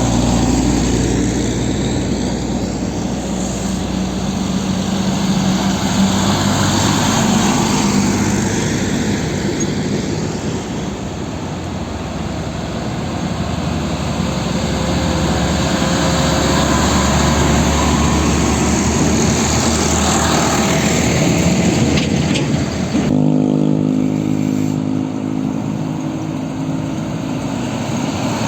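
Truck engines running loudly. About 23 seconds in, the sound switches abruptly to a different engine note.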